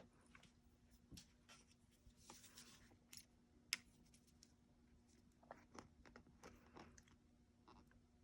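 Near silence, with faint scattered clicks and short rustles of small craft materials being handled on a worktable, over a faint steady hum.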